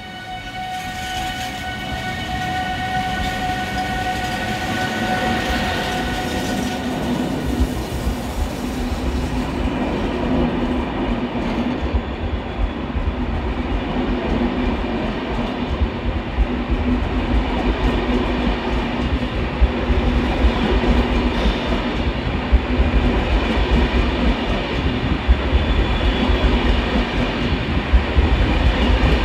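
Train moving through a railway station. A steady tone fades away over the first several seconds while a low rumble builds and then holds, with recurring sharp clacks of wheels crossing rail joints.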